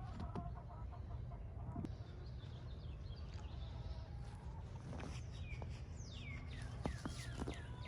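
A bird calling in a quick series of short downward-sliding chirps, starting about five seconds in, over a steady low rumble.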